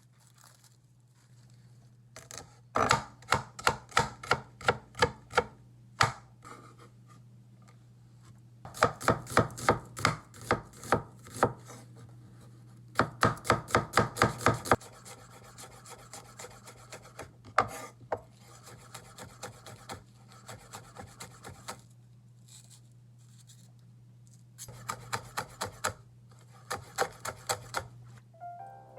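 Knife chopping vegetables on a cutting board, in quick runs of about four strokes a second with pauses between the runs. A steady low hum runs underneath.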